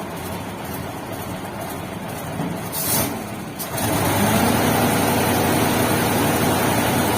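Heavy diesel truck engine running, with a short burst of air hissing about three seconds in, like an air brake being released; the engine then gets louder and runs steadily.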